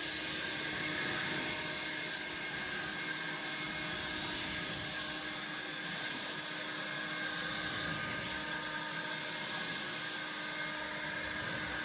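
A small motor running steadily with a constant whine over a rushing hiss.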